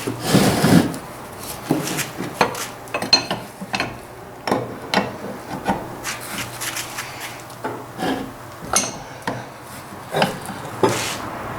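Irregular clinks, knocks and scraping of hand tools working on metal vise parts, with a burst of scraping about half a second in.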